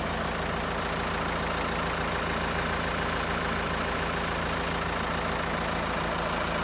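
Forklift engine idling steadily while it holds a load on its forks.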